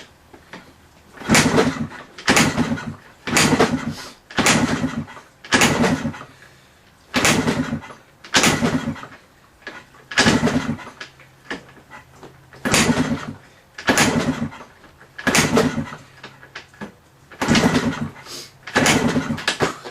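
1985 Yamaha Tri-Z 250's two-stroke single being kick-started over and over with the choke off, about fifteen kicks at roughly one a second with a short pause about halfway. The engine turns over with each kick but does not catch, as it is cold after sitting for months.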